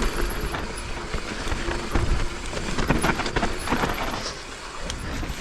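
Mountain bike rolling down a rough dirt trail: tyres on dirt, a steady low rumble, and scattered knocks and clatter from the bike over bumps.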